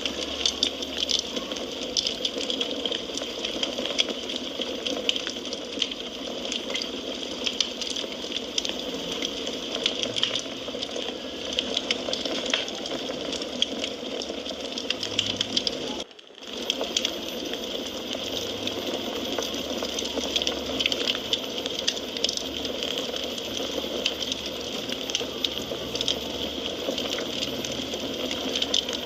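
Wood fire in a fireplace crackling, with frequent sharp pops and snaps over a steady hiss. The sound dips out briefly about sixteen seconds in.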